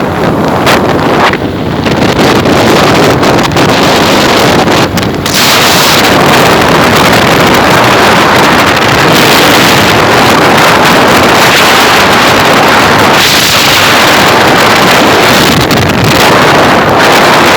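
Heavy wind noise buffeting the microphone on a motorcycle moving at speed, with the vehicle running underneath it. The noise eases briefly twice in the first five seconds, then holds steady and loud.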